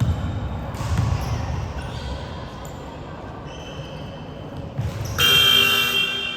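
A basketball bouncing on a gym's hardwood court during play, with thuds at the start and about a second in. About five seconds in, a loud, shrill, high-pitched blast lasts about a second.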